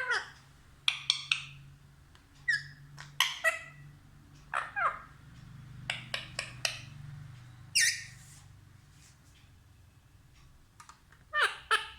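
Pet parrot calling in short, high squawks and chirps, spaced a second or two apart, several of them arching down in pitch. A tighter cluster of calls comes near the end.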